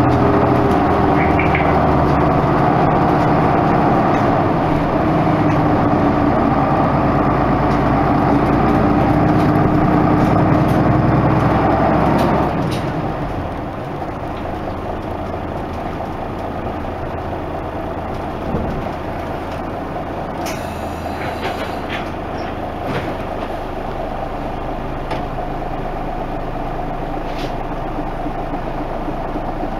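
Isuzu Erga Mio bus's diesel engine running under power. About twelve seconds in the engine note drops away, leaving quieter running noise with a thump, a few clicks and a short hiss.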